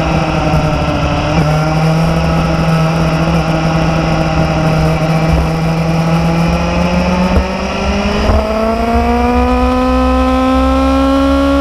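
Motorcycle engine running under way, its note steady and sagging slightly for most of the time. About two-thirds through it steps up and climbs steadily as the bike accelerates.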